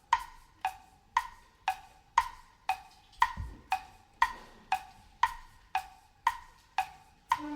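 Wood blocks struck in an even tick-tock, about two strokes a second, alternating between a higher and a lower pitch. A soft low drum thud comes about three seconds in, and the wind band's held chord enters near the end.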